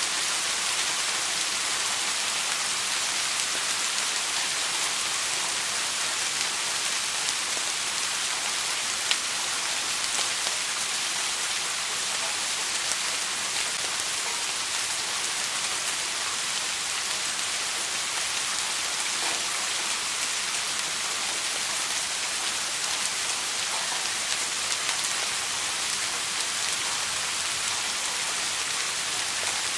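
Steady rain falling, an even hiss with scattered individual drop impacts, one sharper tick about nine seconds in.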